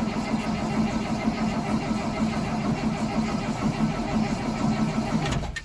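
Starter cranking a 2003 Blue Bird school bus's International DT466E inline-six diesel on a cold start, unplugged at about 11°F and fed a shot of ether, turning over steadily with a rhythmic pulse but not catching. The cranking stops abruptly near the end.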